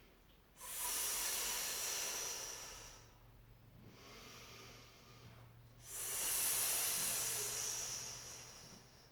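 A woman's two long, controlled hissing exhales through pursed lips, an "S breath" as if blowing through a straw, each lasting two to three seconds, with a quiet inhale between. The breath paces and braces two repetitions of a core exercise.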